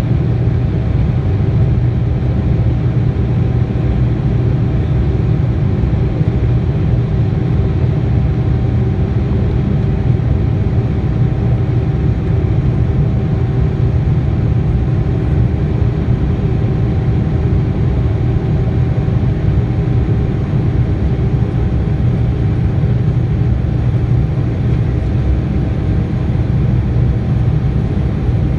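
Steady cabin noise inside a Boeing 787-9 airliner: a constant deep engine and airflow rumble with a faint steady hum running through it.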